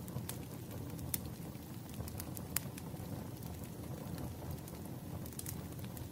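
Wood fire crackling: scattered sharp pops and snaps, a few times a second at most, over a steady low rumble of burning.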